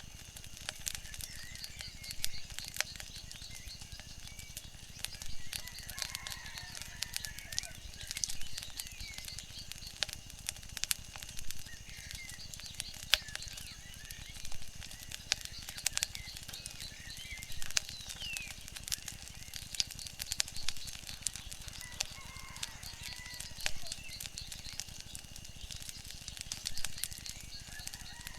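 Wood fire crackling, with irregular sharp pops of varying loudness over a steady low rush, and a few faint short chirps now and then.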